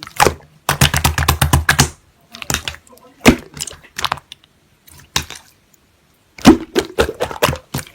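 Slime being squeezed and pressed by hand, giving irregular bursts of crackling clicks and pops, densest about a second in.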